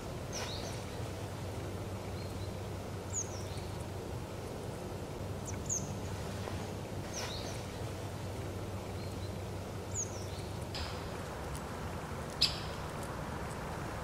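Short, high chirping calls of small birds, one every two or three seconds, the sharpest and loudest about twelve seconds in, over a steady low background hum.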